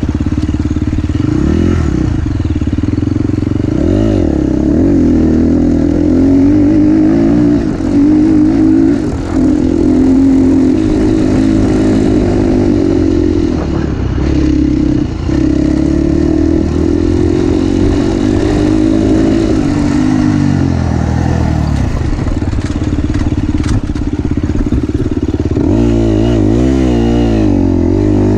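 KTM 350 SX-F single-cylinder four-stroke motocross engine heard from on board, revving up and down as the rider works the throttle and gears around the track. Near the end the pitch wavers quickly up and down with rapid throttle changes.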